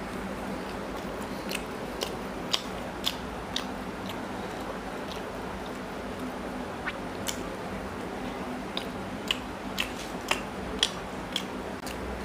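A man chewing mouthfuls of chicken curry and paratha, with sharp wet lip smacks and mouth clicks. The smacks come in a run about two to three seconds in and again about nine to eleven seconds in, over a steady low hum.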